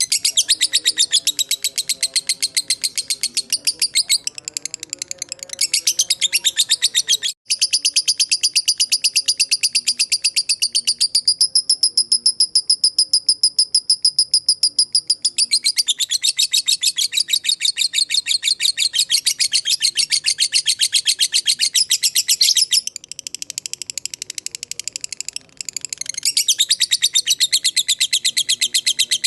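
Lovebird giving its long 'ngekek' chatter: a fast, unbroken run of shrill chirps that settles into a steady, even trill for a few seconds in the middle, with a brief break about seven seconds in.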